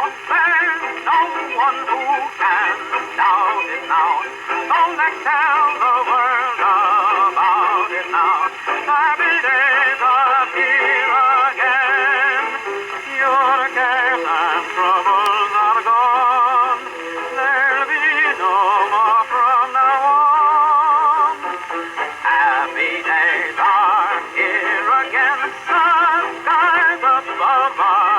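Victor acoustic phonograph playing a worn 78 rpm dance record through its horn: a male singer with a wide vibrato over a dance band. The sound is thin, with almost no bass or top end.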